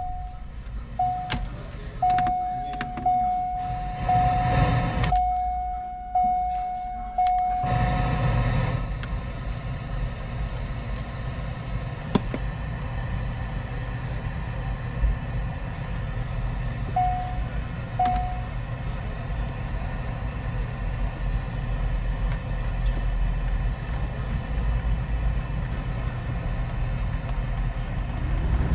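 2001 Corvette's 5.7 L V8 idling with a steady low rumble, heard from inside the cabin, while the dash sounds a chime tone several times over the first eight seconds. About eight seconds in, a steady rushing noise comes up, and two short beeps sound about a second apart as the climate-control buttons are pressed.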